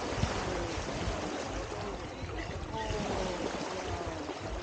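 Beach ambience: a steady wash of surf and wind noise, with faint voices of people chatting in the background from about halfway through.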